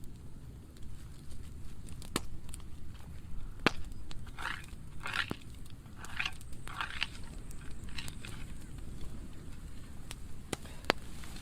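Burn pile of dry pruning wood burning, with a steady low rumble and sharp crackling pops scattered through, the loudest two near the middle and at the end.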